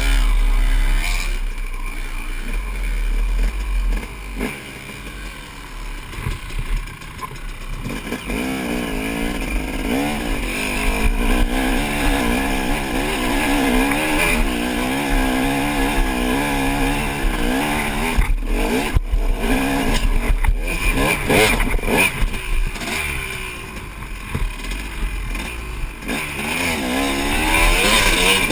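Honda CR250 two-stroke dirt bike engine revving hard, its pitch rising and falling over and over under load, heard close up with low wind rumble on the microphone. The engine drops off briefly a few times about two-thirds of the way through.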